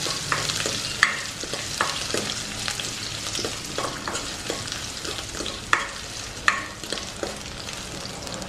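Chopped garlic, ginger, curry leaves, mustard seeds and dried red chillies sizzling in hot oil in a kadai, with a spatula stirring and scraping the pan in repeated strokes, a few of them sharper knocks. This is the tempering being fried until the garlic and ginger soften.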